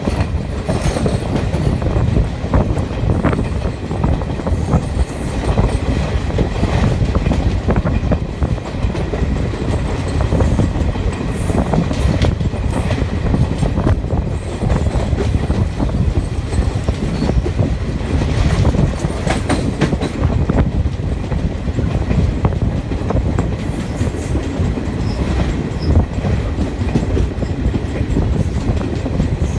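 Passenger train running at speed over a long steel river bridge, heard from on board: a steady loud rumble of wheels on rail with a continuous rattle of rail-joint clicks and occasional brief high wheel squeals.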